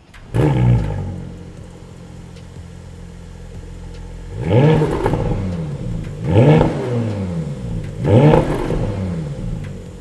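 Porsche Panamera E-Hybrid's V6, breathing through an Akrapovic titanium slip-on exhaust with the secondary cats deleted, flares right at the start and settles to idle. It is then blipped three times, each rev rising and falling back to idle.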